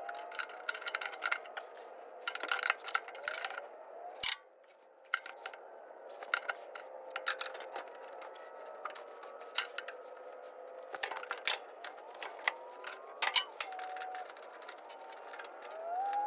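Wrenches clinking, knocking and scraping against the steel fittings of hydraulic hoses on a Caterpillar 312C excavator, in many quick irregular clicks, as fittings that are too tight are worked to break them loose.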